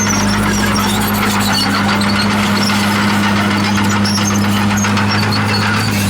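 Komatsu D51PX bulldozer running steadily with a constant low hum, with scattered short high-pitched squeaks from its steel tracks.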